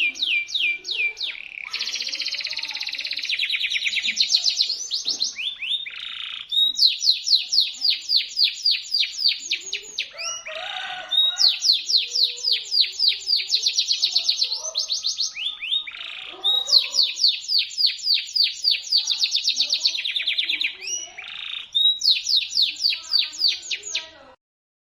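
A domestic canary singing a shrill, sharp song of rapid trills, high notes repeated quickly in phrases of a few seconds with brief breaks between them. The song cuts off abruptly near the end.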